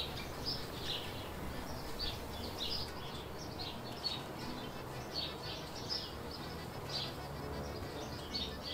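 Small birds chirping repeatedly in short, irregular notes over a low, steady background rumble.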